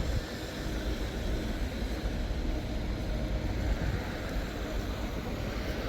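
Steady low rumbling noise with a faint hiss above it, unchanging throughout.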